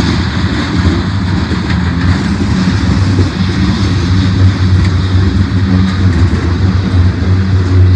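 Diesel freight locomotives running with a steady, loud low drone under a broad rumble.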